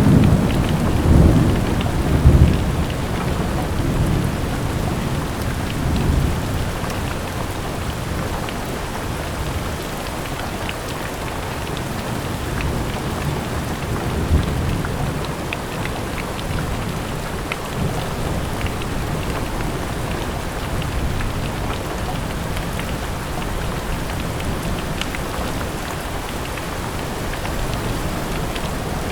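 Steady rain falling, with individual drops ticking through the hiss. Thunder rumbles low and heavy in the first couple of seconds, then dies away to fainter rolls while the rain carries on.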